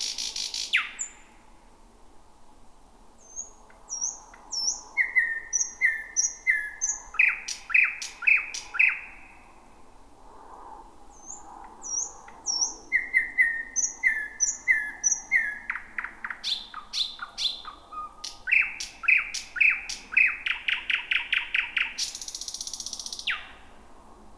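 Thrush nightingale singing: loud phrases built from rapid runs of repeated whistled notes and dry clicks, each closing with a harsh rattle. Two phrases, with a short pause about ten seconds in.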